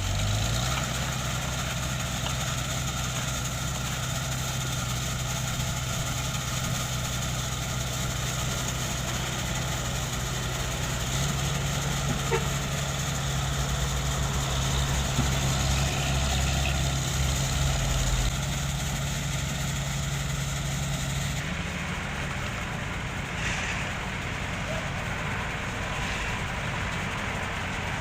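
Heavy diesel construction machinery running steadily at road works, one engine's note rising about a third of the way in and dropping back a little later; the sound turns duller near the end.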